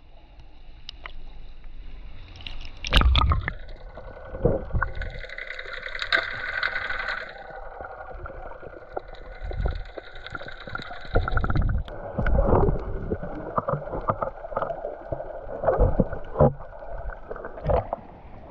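Motorboat under way: its engine runs steadily while the hull knocks and splashes through the water in irregular thumps.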